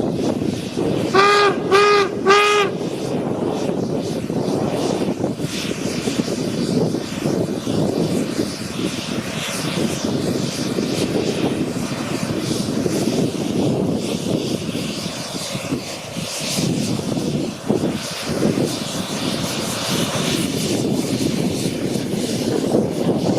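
Three quick toots of a locomotive whistle about a second in, each on one pitch, followed by a steady rushing noise.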